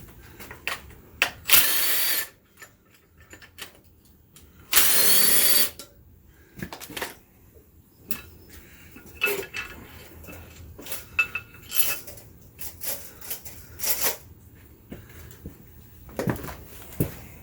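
A power tool runs in two short bursts, each under a second, used to undo fasteners on an engine. Scattered metal clinks and knocks of parts and tools follow.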